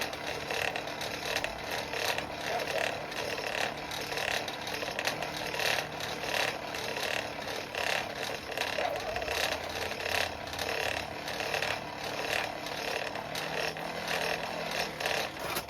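Forge fire pot being cleaned out: a steady rushing noise with rapid metallic rattling and clicking throughout.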